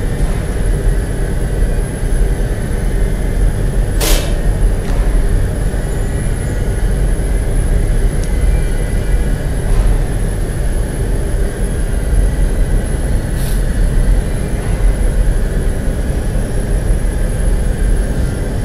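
Steady, loud low rumble of heavy industrial machinery, with a thin high whine throughout and a short hiss about four seconds in and again near the end.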